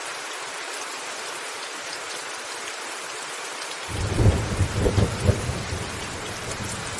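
Steady hiss of heavy rain on a roof. About four seconds in, a deep rumble of thunder begins suddenly and rolls on with uneven loud peaks.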